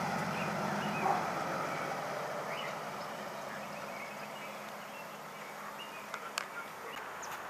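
Engine of a first-generation Ford Falcon sedan running as the car pulls away down the street, its sound fading steadily as it moves off. A few faint clicks near the end.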